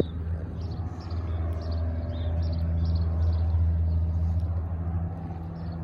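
Cessna floatplane's piston engine and propeller running at high power, a steady low drone that grows louder between about one and three seconds in.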